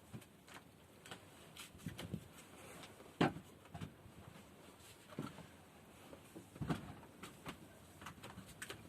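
Irregular wooden knocks and clatters of a board being handled and fitted over a hole, the loudest about three seconds in and again near seven seconds.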